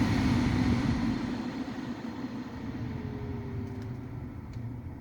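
Ford Focus II heater blower fan being turned down to its lowest speed, its airflow noise dying away over the first couple of seconds. It runs with no squeak or whistle, its bearing freshly serviced; a couple of faint clicks come near the end.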